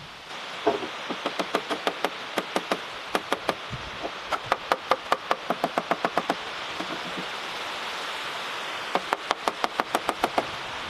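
Quick, sharp taps of a hand tool striking, about four a second, in two runs with a pause of a few seconds between, over a steady hiss.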